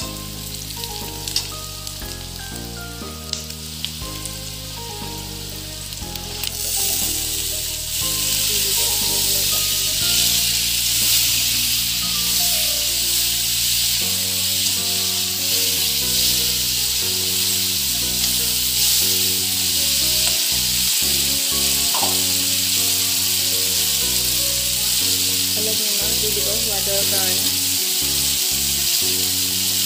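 Onions, spices and silkworm pupae stir-frying in hot oil in a wok, sizzling steadily as a perforated metal spatula turns them. The sizzle becomes much louder about seven seconds in, when the pupae go into the hot oil.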